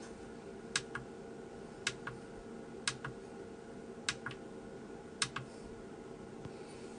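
A small push button pressed and released five times, about once a second, each press a sharp click followed by a softer click, over a faint steady hum.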